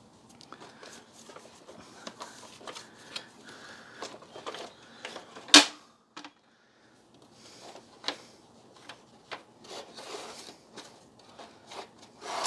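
Hard plastic parts of a Dyson DC33 vacuum cleaner being handled and turned over, with irregular small clicks, knocks and rubbing and one sharp loud click about halfway through.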